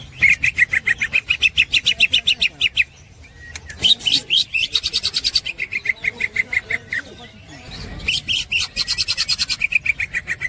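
A green leafbird (cucak ijo) singing its rapid chattering 'ngekek' trill: three phrases of quickly repeated, even notes, about six or seven a second, separated by short pauses.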